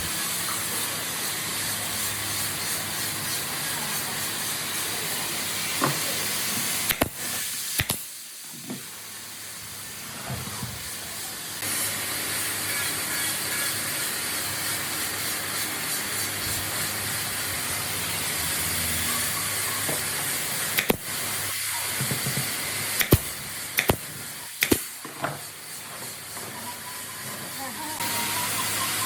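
Steady hiss of compressed air from an air tool. It cuts off twice for a few seconds and starts again, with sharp clicks and knocks around the breaks.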